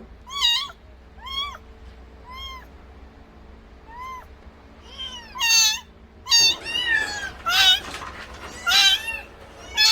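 Cats meowing over and over: single meows about a second apart at first, then from about five seconds in louder, quicker meows from several cats overlapping.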